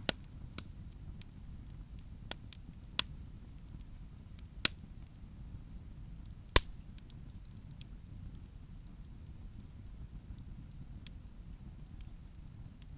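Wood fire crackling, with irregular sharp pops, the loudest a little past the middle, over a low steady rumble.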